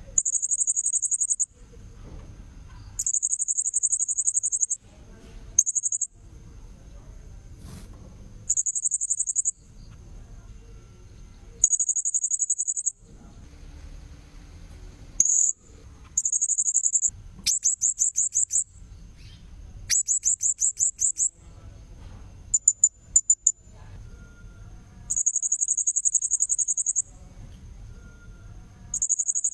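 Blue-crowned hanging parrot (serindit) calls played as a bird-trapping lure: repeated shrill, very high-pitched rapid trills, each a second or two long with short gaps between. Some are broken into quick separate chirps. A faint steady high whine runs underneath.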